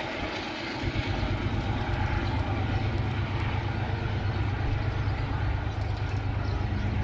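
Train passing: a steady rushing noise of wheels on rail, joined about a second in by a deep, steady rumble.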